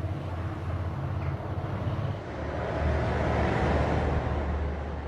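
A low engine rumble with a rushing noise that swells about three seconds in and then eases off.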